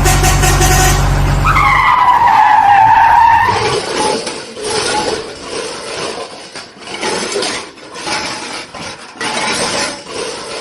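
Vehicle sound effects: a steady low drone for about the first two seconds, overlapped by a squeal that slides down in pitch, then a rough, uneven vehicle noise that swells and fades.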